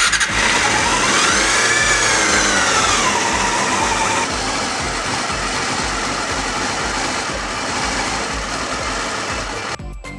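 Honda CBR250R's 250 cc inline-four engine starting and running, revving up about a second in and dropping back, then running steadily.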